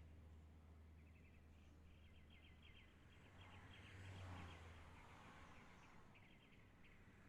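Faint, rapid trilled chirping of a small bird, in several runs of a second or two, over a low steady hum.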